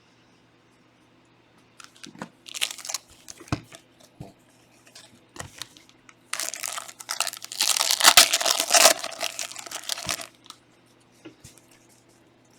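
Plastic trading-card pack wrapper being torn open and crinkled: short rustles about two seconds in, then a longer, louder stretch of crinkling and tearing in the middle.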